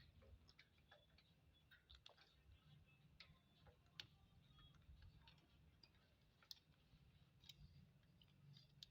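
Very faint, irregular clicks and taps of an Indian ringneck parakeet's beak as it eats, a few scattered clicks each second.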